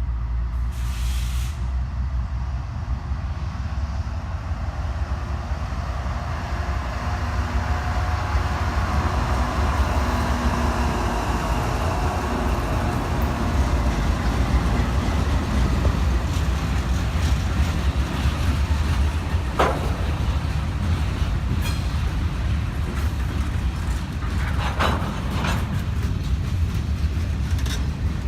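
Freight train moving on the track: a steady low diesel locomotive rumble with wheel and rail noise, with a few short, sharp metallic sounds about two-thirds of the way through.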